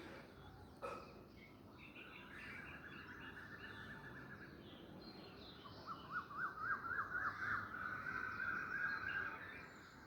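Birdsong: a bird gives fast runs of repeated trilled notes, first softer and then a longer, louder run in the second half. A single brief knock sounds about a second in.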